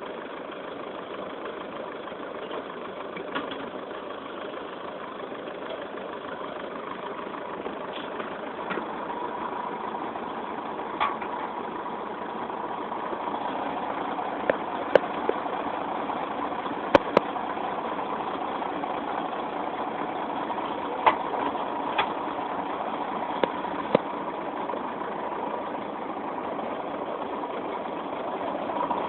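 Heavy vehicle's diesel engine running steadily, growing somewhat louder partway through, with a few sharp clicks or knocks over it.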